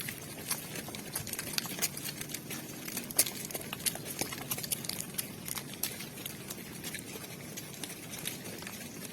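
Cattle hooves knocking and scuffing irregularly on hard ground as cows walk, a scatter of sharp clicks with no mooing.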